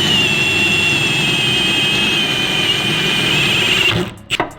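Power drill running under load, boring out welded-over mount holes in the steel of a car's engine bay, with a steady high whine that sags slightly in pitch. It stops about four seconds in.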